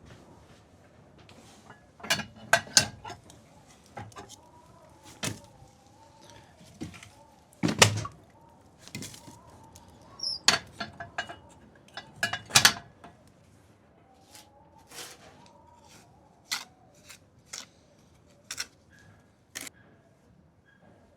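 Irregular sharp knocks and clacks of objects being handled, the loudest about two, eight and twelve and a half seconds in, over a faint wavering tone.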